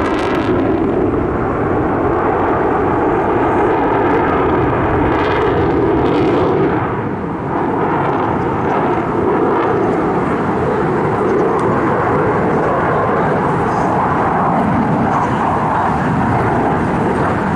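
Loud, continuous engine noise of a fixed-wing aircraft flying past, with a swishing sweep about five seconds in.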